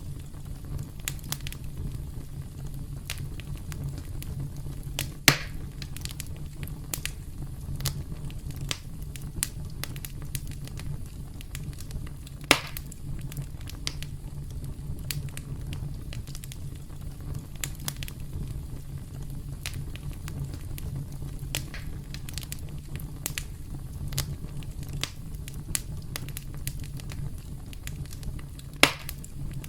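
Campfire crackling: a steady low rumble of burning wood with constant small snaps, and three louder pops, one about five seconds in, one around the middle and one near the end.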